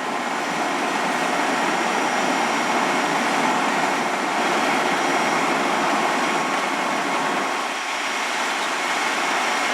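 Steady vehicle engine and road noise, an even rush with no siren and no distinct knocks, dipping slightly near the end.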